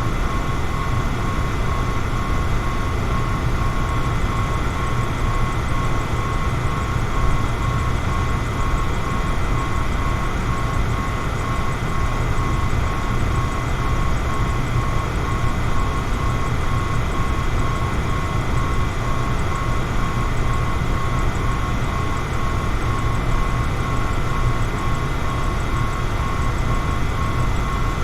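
Electric fan running steadily: a constant rush of air with a low hum and a thin, steady high tone from the motor.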